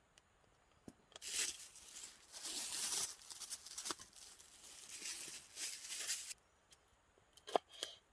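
Close crinkling, rustling and tearing of a crinkly material such as plastic packaging, lasting about five seconds, followed by a couple of sharp light clicks near the end.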